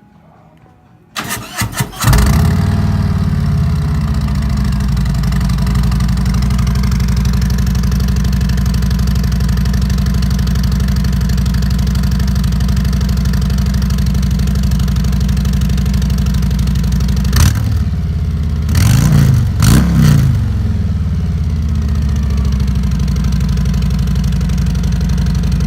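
Harley-Davidson Street Glide's Milwaukee-Eight V-twin, breathing through RCX 4.5-inch chrome slip-on mufflers, is cranked on the starter and catches after about a second, then idles steadily. About two-thirds of the way through it is blipped three times, the note rising and falling each time, before settling back to idle. The engine cuts off right at the end.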